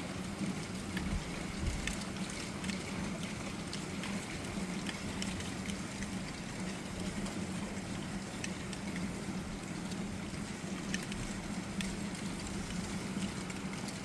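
Steady rain with scattered drops and drips tapping on hard surfaces, over a steady low hum.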